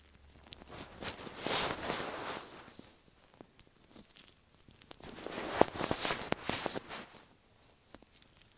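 Latex-gloved fingers rubbing and tapping directly on an earphone microphone: close, scratchy rubbing strokes in bursts of a second or two, with a few sharp clicks around the middle.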